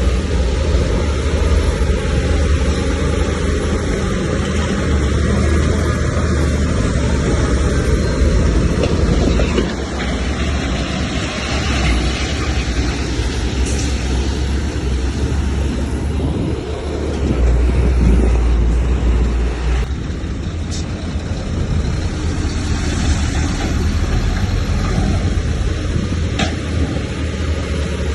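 Heavy diesel earthmoving machinery running continuously with a loud low rumble, swelling for a couple of seconds just past the middle.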